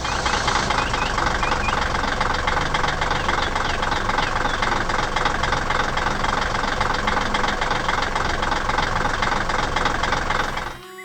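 A machine engine running with a steady, fast rattle.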